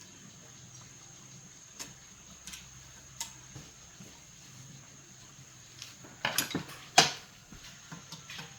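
Tools and metal parts being handled during a repair: scattered light clicks and clinks, with a cluster of louder knocks about six seconds in and one sharp clank a moment later.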